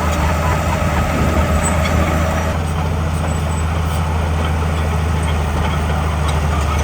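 Komatsu D41P bulldozer's diesel engine running steadily with a deep hum, its texture shifting slightly about two and a half seconds in.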